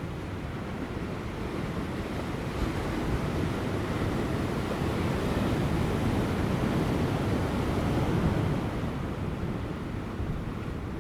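Large ocean waves breaking on rocks offshore, a continuous wash of surf that swells to a peak about eight seconds in and then eases, with wind on the microphone.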